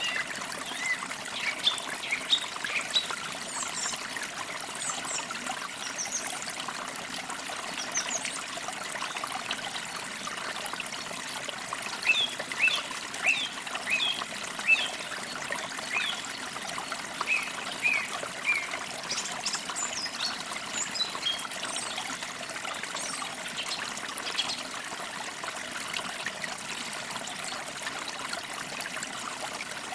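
Small stream trickling steadily, with songbirds chirping over it in short quick notes, busiest in the middle stretch.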